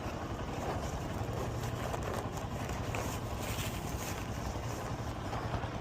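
Honda XR150L's single-cylinder four-stroke engine idling steadily, a low even hum.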